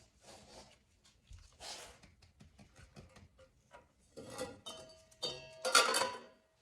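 Hands working metal oil-burner parts and tools: soft clicks and rustling, then from about four seconds in several sharp metallic clinks that ring briefly, the loudest near the end.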